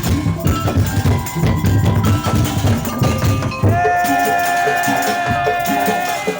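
Madurese tong-tong parade music played live: bamboo slit drums and drums beating fast and dense. About halfway through, a long held high note comes in over the percussion.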